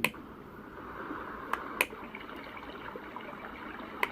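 Portable white noise sound machine playing one of its built-in nature sounds, a steady water-like hiss, through its small speaker. Its button clicks near the start and twice more about a second and a half in as it is pressed to switch between sounds.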